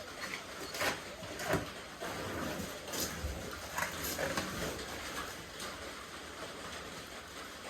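Plasti Dip rubber coating being peeled off a truck's painted body panel, with several short sharp ripping sounds in the first half.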